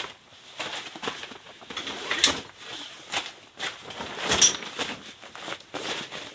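A run of irregular crunches, with two sharper, louder cracks about two seconds and about four and a half seconds in.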